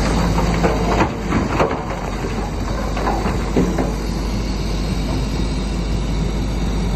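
Bulldozer engine running steadily under load, with a string of short metallic squeals and clanks from the undercarriage between about one and four seconds in.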